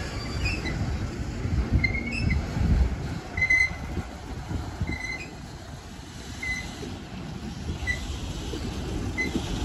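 Rear cars of a freight train, a multi-axle heavy-load car and a caboose, rolling past on the rails: a low rumble of steel wheels on track that is heaviest in the first few seconds and eases toward the middle. Short high chirps recur every second or so.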